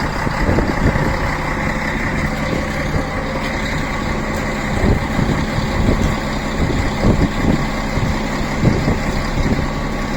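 Strong wind buffeting the phone's microphone, over the steady low hum of a train standing at the platform.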